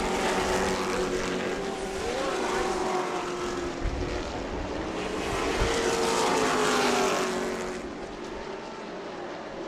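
Pack of Pro Truck stock-car race trucks running laps on a short oval, their engines rising and falling in pitch as they pass. The sound swells to its loudest about six to seven seconds in, then fades as the field moves away.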